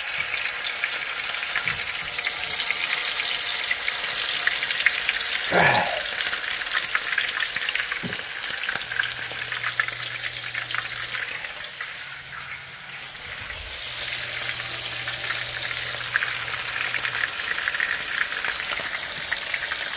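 Quail pieces sizzling and crackling steadily in hot oil in a frying pan, with a brief knock about six seconds in.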